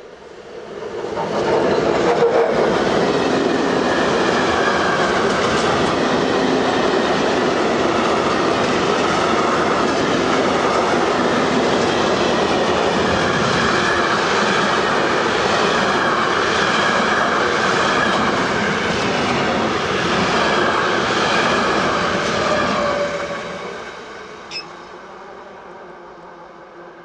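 Train passing close by at speed: a loud, steady rush of wheels on rail that builds about a second in, holds for about twenty seconds and then fades away. A sharp click sounds near the end.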